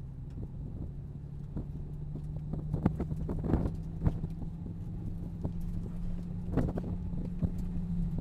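Nissan 370Z Nismo's 3.7-litre V6 running at low speed with a steady low drone, heard inside the cabin. Irregular clicks and knocks sound over it, most sharply about three to four seconds in and again around six and a half seconds in.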